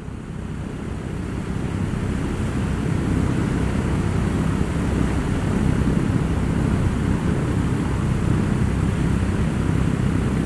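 Steady low rumbling drone of an airplane in flight, fading in and building over the first couple of seconds.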